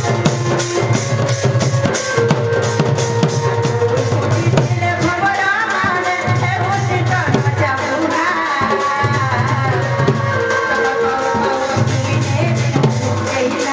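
Sambalpuri dand folk music: a steady, quick drum beat of about four strokes a second under a sustained melody line.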